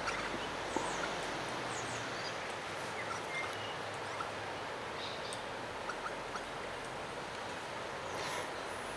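Small birds giving scattered short chirps and calls while feeding on scattered seed, over a steady rushing background of wind and rough water.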